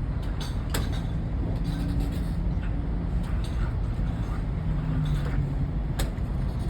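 Steady low rumble of an idling diesel truck engine, with a sharp click about a second in and another near the end.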